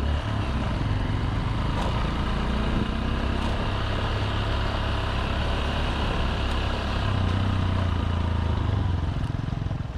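Motorbike engine running steadily while riding, under an even rush of wind and road noise; the engine note gets a little stronger about seven seconds in.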